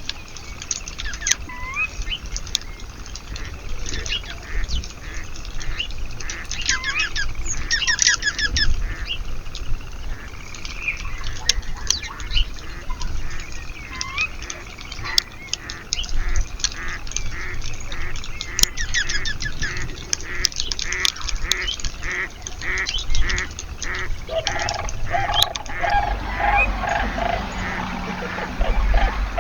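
Backyard birds calling and singing, with many short rising call notes and a fast run of repeated notes in the second half. Near the end a lower-pitched, rapidly repeated call from a larger bird joins in.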